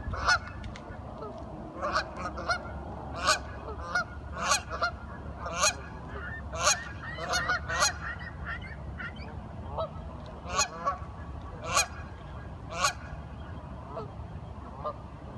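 Ducks calling in short repeated quacks, about one or two a second with a few pauses, over a steady low rumble.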